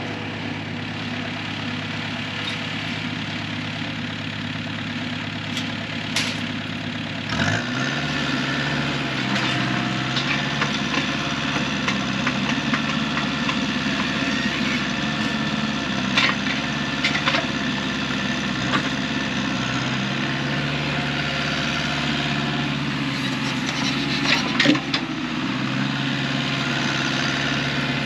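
An engine idling, then revved up about seven seconds in and running steadily at the higher speed, with a few short clanks.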